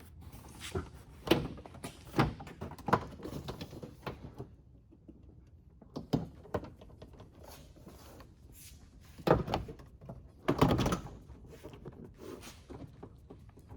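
Mercedes Sprinter front door trim panel being pressed back onto the door, its clips pushed into their holes: a series of knocks and thuds, with the loudest ones about nine and a half and eleven seconds in.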